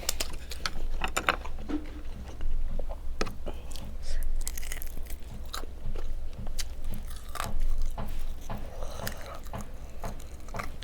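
Close-miked mouth sounds of a person eating: irregular biting, chewing and crunching, with scattered sharp clicks.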